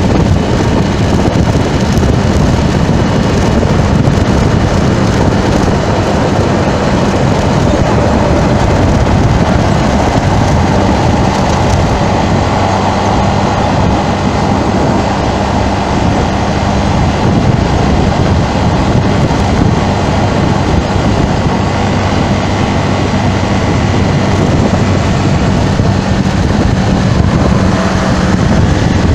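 Road traffic and wind noise: a loud, steady rush of wind and passing vehicles with a low, steady hum under it.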